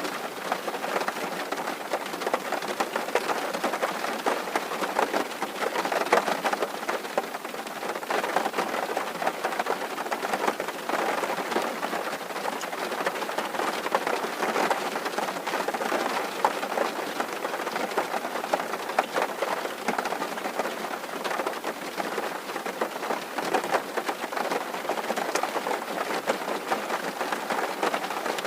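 Steady rain drumming on a tin roof: a dense, even patter of many small drop impacts on the metal sheeting.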